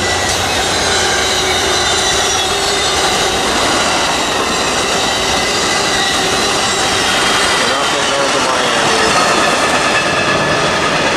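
A train rolling past close by: steady, loud noise of steel wheels on the rails, with faint thin high-pitched wheel squeal.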